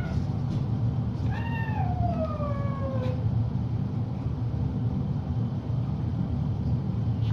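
Cat meowing: the tail of a short meow right at the start, then one long meow about a second in that slides down in pitch. A steady low hum runs underneath.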